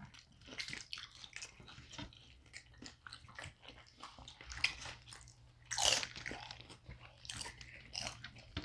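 Someone biting and chewing crunchy corn-tortilla food, with irregular crunches and the loudest bite about six seconds in.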